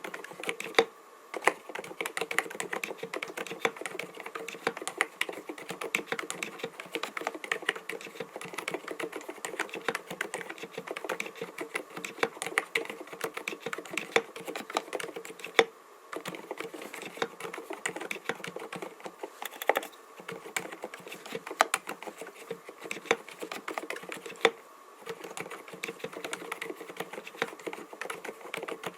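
Continuous fast typing on an mStone Groove T 87A mechanical keyboard with silent Milky linear switches (45 g): a dense run of soft, muted key presses with a few brief pauses.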